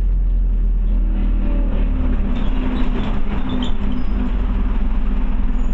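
Scania OmniCity bus heard from inside the cabin: the diesel engine runs with a steady low drone, with some rattling about two to four seconds in.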